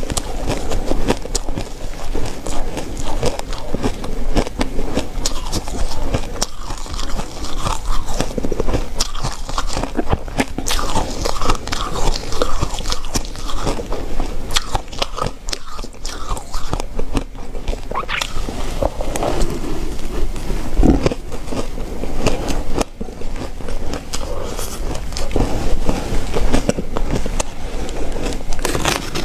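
Ice being bitten and chewed: a steady run of many sharp, crisp cracks and crunches.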